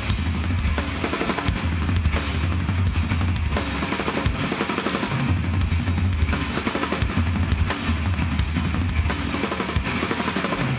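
Hardcore band playing live without vocals: a drum kit pounding bass drum and snare under distorted guitars and a held bass line.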